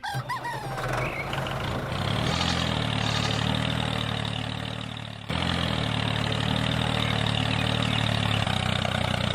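Tractor diesel engine idling steadily. It builds up over the first couple of seconds, sags, then cuts back in abruptly about five seconds in.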